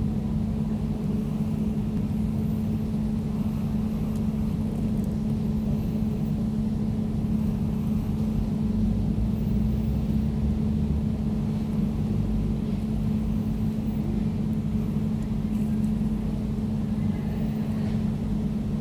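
Air conditioner running with a steady hum: a low drone over a deeper rumble, unchanging.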